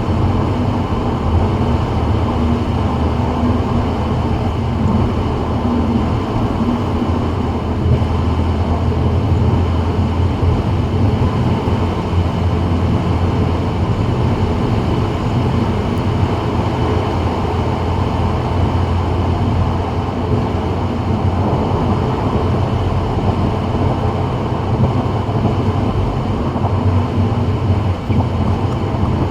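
Steady road noise and low engine drone of a 2024 Subaru WRX, turbocharged 2.4-litre four-cylinder, cruising on a rain-wet freeway, with no change in pace.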